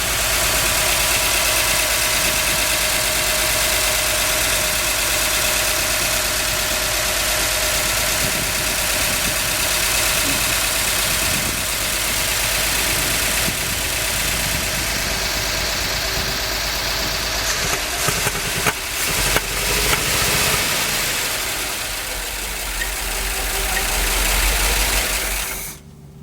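1969 Chevrolet C50 truck's big-block V8 running steadily with its ignition timing just advanced, then shut off near the end.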